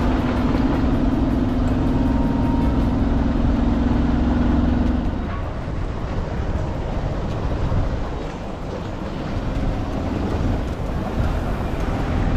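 Road vehicle noise: a steady low rumble of driving, with a steady hum over it for about the first five seconds that then stops.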